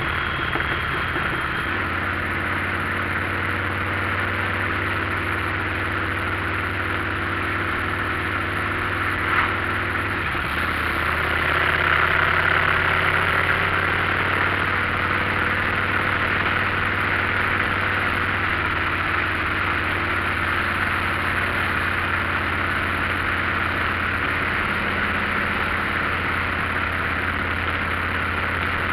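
Motorcycle engine running at a steady speed under a steady hiss of wind and road noise; the engine note shifts slightly about ten seconds in.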